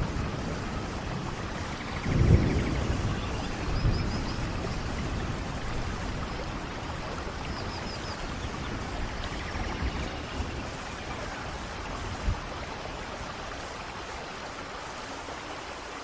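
Steady heavy rain falling in a rainforest, with low rumbles of thunder swelling about two and four seconds in and a single short low thump later. Faint high chirps sound now and then behind the rain.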